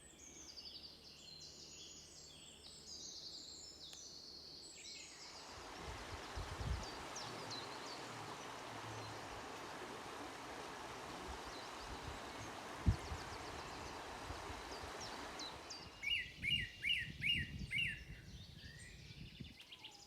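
Songbirds singing in woodland, with warbling song at first. From about five seconds in until about sixteen seconds a steady rushing noise covers the song, with a single knock partway through. Near the end a bird repeats a short, sharp note about five times in quick succession.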